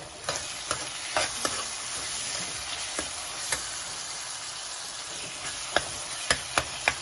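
Onions, tomatoes and split chickpeas (chana dal) frying in oil in a metal kadai with a steady sizzle. A metal ladle stirs the mix and clinks against the pan, in a few sharp clicks near the start and again near the end.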